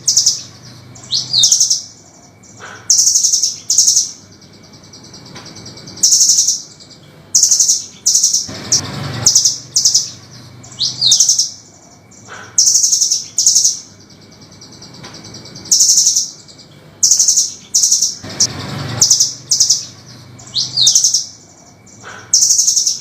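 Velvet-fronted nuthatch giving sharp, high chattering calls in short bursts every second or two. The sequence repeats about every ten seconds, as a looped training recording does. A brief low rushing noise comes about 9 and 19 seconds in.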